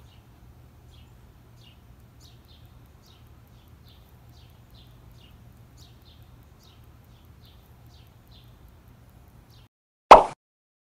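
Faint bird chirping: short, quick falling notes repeated about twice a second over a low, steady outdoor rumble. Near the end the chirping stops and a single short, loud logo sound effect hits.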